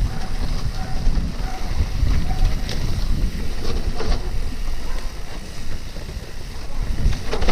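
Wind buffeting the microphone while a bicycle is ridden over a rough trail, with a few scattered clicks and knocks from the bike jolting over the ground.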